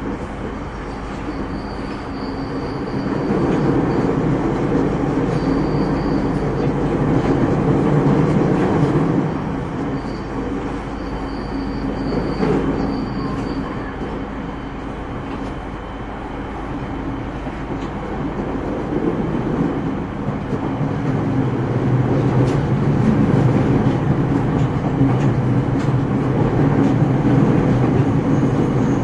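JR 209-series electric train heard from inside a motor car while running: wheels on the rails and the car's rumble swell and ease over the stretch. A faint high whine comes and goes in the first half.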